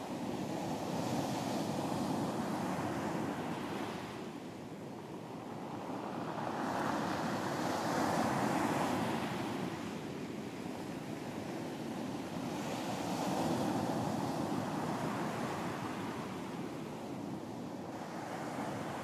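Ocean surf washing onto a beach, waves swelling and receding about every five to six seconds, with some wind.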